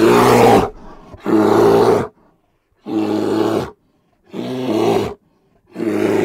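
A bear giving a series of deep growls, five in a row, each under a second long, separated by short silences.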